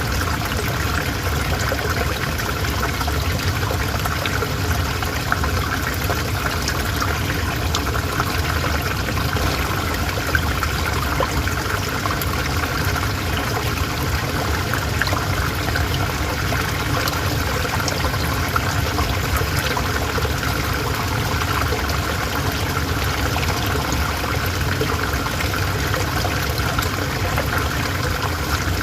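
River water flowing and trickling steadily, an even rush that does not let up.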